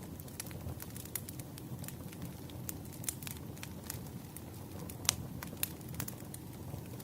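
Wood fire crackling: irregular sharp pops and snaps over a steady low rumble of burning logs, with the loudest pop about five seconds in.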